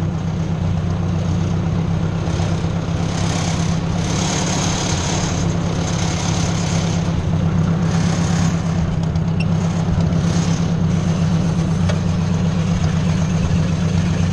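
Ford 600 tractor's four-cylinder engine running steadily at low speed.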